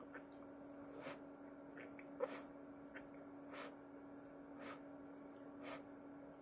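Quiet room with a steady low hum and faint soft mouth and breathing noises of a person chewing food, about one a second.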